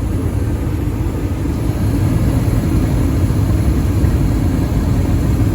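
Comfortmaker gas furnace running with its blower fan on: a steady low rumble and rush of air, like an air conditioner running, getting a little louder about two seconds in.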